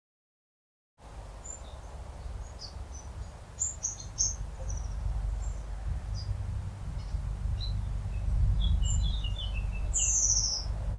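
Songbirds chirping in many short, high calls, with one longer call falling in pitch near the end, over a steady low rumble. The sound starts about a second in, after dead silence.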